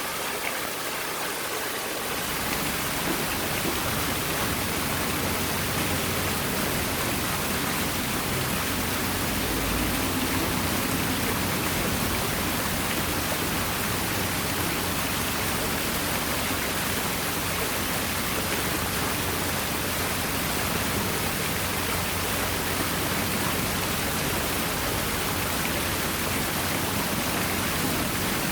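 Water falling steadily over an artificial rock waterfall, an even splashing rush.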